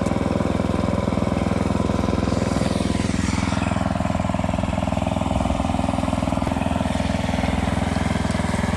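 Sawmill engine running steadily at a constant speed. About two and a half seconds in, a higher whine falls in pitch and then settles into a steady tone over the engine.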